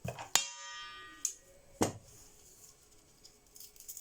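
Metal garlic crusher clanking: a sharp metallic clack about half a second in that rings on briefly, then a second clack near two seconds.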